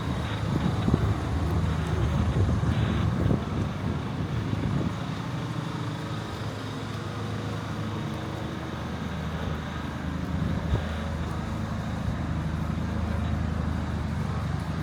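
Street traffic, with a vehicle engine running steadily close by throughout.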